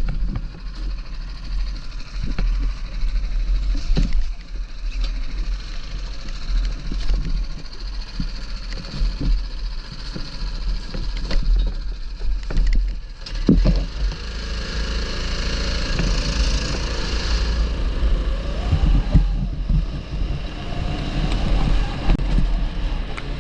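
A 270cc go-kart running on a wet track, its engine sound half buried under heavy wind buffeting on the microphone. Scattered knocks throughout, and a hiss swells in the middle.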